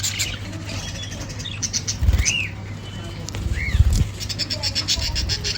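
Caged budgerigars and cockatiels chirping, with short arched calls every second or two and higher twittering over them. Low muffled thumps come about two seconds in and again around three and a half to four seconds in.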